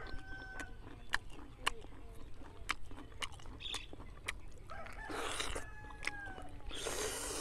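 Close chewing and eating sounds of steamed snake meat: many small wet lip smacks and mouth clicks, with two longer breathy sucking or blowing sounds near the end.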